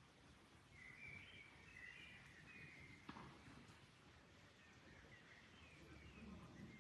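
Faint small birds chirping in short twittering phrases over a soft, steady background noise, with one sharp click about three seconds in.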